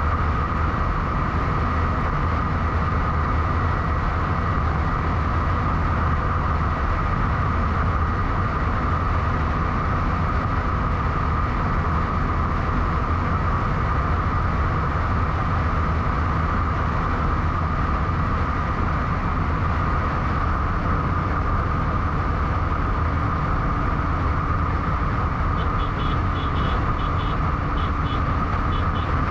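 Steady, unbroken road noise from a bike travelling along the road, with a low rumble under a constant hiss. Near the end comes a quick run of short high beeps.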